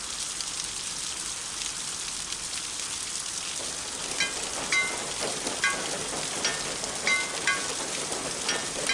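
Steady rain falling, with short pitched drips plinking at irregular intervals from about four seconds in.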